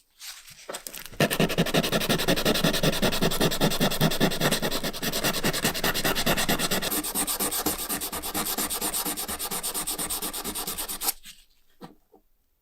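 Abrasive rubbing on the metal lighter case, as in sanding or filing, in rapid, even strokes. It starts about a second in and stops shortly before the end.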